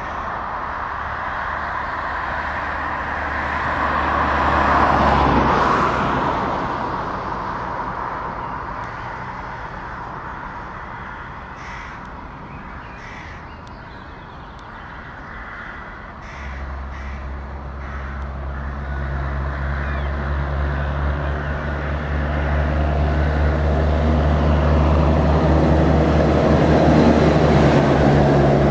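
Heavy trucks driving past with low engine rumble: one passes loudest about five seconds in and fades, then another truck's engine comes in about sixteen seconds in and grows steadily louder as it approaches.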